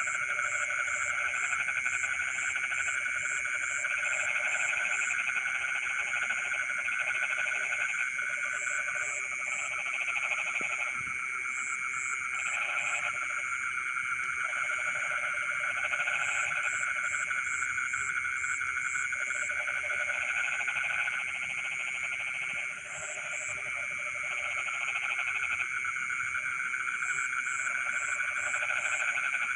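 Dense chorus of frogs calling in flooded rice fields, a steady overlapping trill. Lower croaking calls come and go in bouts, and short runs of high, evenly spaced chirps sound over the top.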